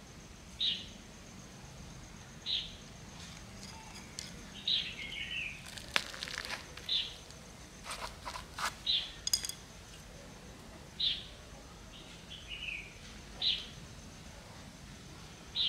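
A bird repeating a short, high call about every two seconds, twice breaking into a short falling chirp. A few sharp clicks and light scraping near the middle come from the cuttings being pushed into the plastic basket.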